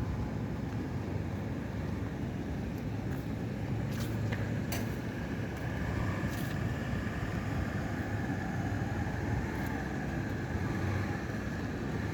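Honda Brio Satya's 1.2-litre four-cylinder SOHC i-VTEC engine idling steadily, with a few light clicks around the middle.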